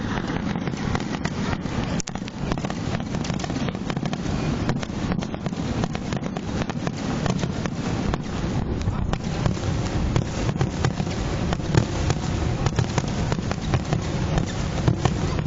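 Fireworks display: a dense, unbroken run of bangs and crackles over a low rumble, growing busier and louder in the second half.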